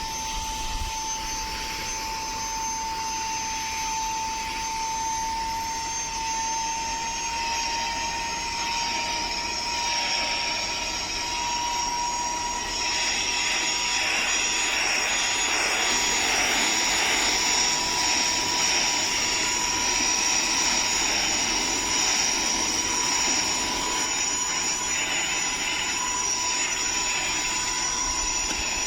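Minthouz cordless handheld vacuum/blower running continuously: a steady high motor whine that drifts slowly up in pitch, over a rush of airflow that grows louder about halfway through.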